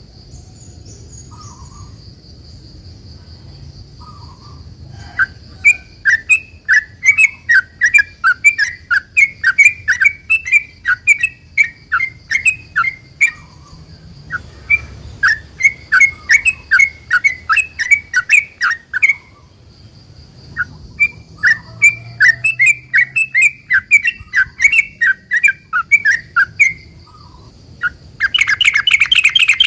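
Sooty-headed bulbul (trucukan) singing its long rolling 'ropel' song: three long runs of quick chattering notes, each several seconds long, then a denser, louder continuous trill near the end. A faint steady high tone lies underneath.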